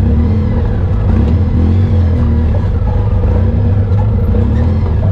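Off-road vehicle engine running steadily while riding a trail, its pitch wavering a little up and down with the throttle.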